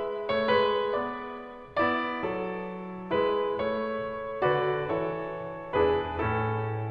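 Background piano music: a slow melody of struck notes and chords, a new one about every second, each fading before the next.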